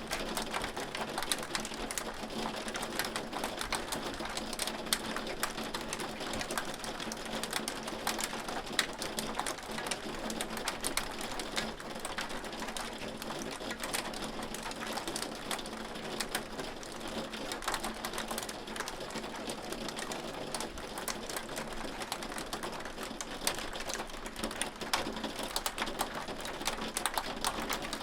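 Hail falling steadily: a dense, even patter of many small sharp ticks.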